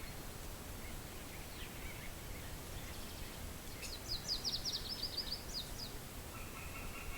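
Steady outdoor wind rumble with wild birds singing: a few faint chirps, then about four seconds in a quick run of a dozen or so short, high, falling notes. From about six and a half seconds a lower, evenly pulsed call starts up and keeps going.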